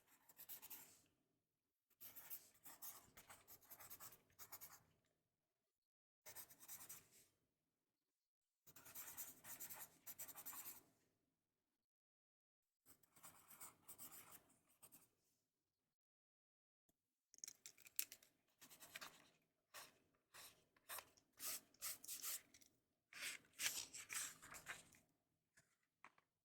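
Pen or pencil writing on paper, scribbled in short spells of a second to three seconds, about nine times, with silent pauses between.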